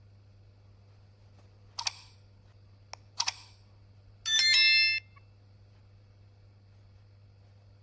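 A few soft clicks, then a short, bright, ringing chime of several high notes that come in one after another, lasting under a second, over a faint steady hum.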